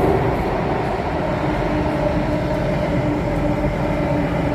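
Alstom Metropolis C830 metro train running between stations, heard from inside the carriage: a steady rumble of the moving train, with a steady humming tone that sets in about a second and a half in.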